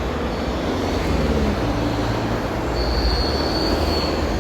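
Road traffic rumbling past at a street crossing, with a thin high-pitched squeal for about a second past the middle.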